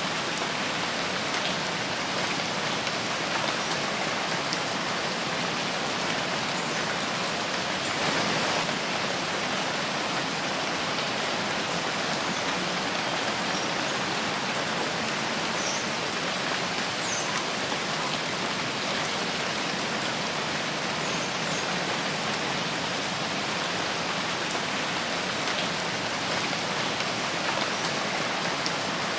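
Steady rain falling in a forest, an even dense hiss of drops, with a brief swell about eight seconds in.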